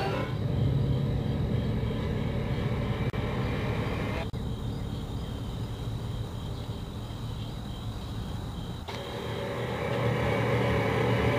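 Car driving: a steady low engine and road rumble that changes abruptly twice, about four and nine seconds in.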